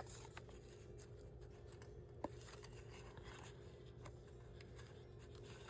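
Near silence: steady low room hum with a few faint clicks of paper being handled on a desk, one sharper tick about two seconds in.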